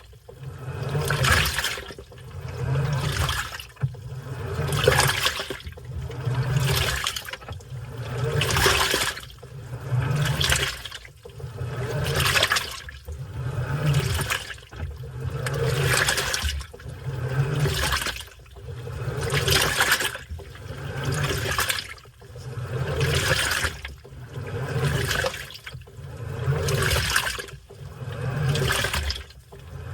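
Washing machine in its wash cycle, agitating: water sloshes in a surge about every two seconds, with the motor humming low under each surge.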